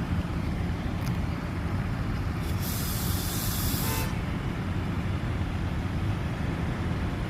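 Steady low engine rumble, with a burst of hissing about two and a half seconds in that lasts about a second and a half.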